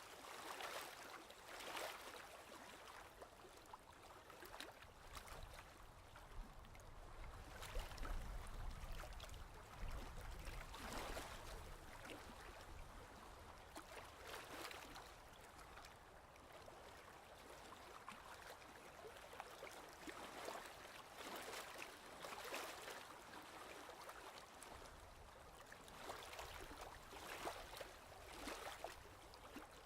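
Ocean waves washing in: a soft hiss of water that swells and fades every couple of seconds, with a low rumble under a few of the swells near the middle.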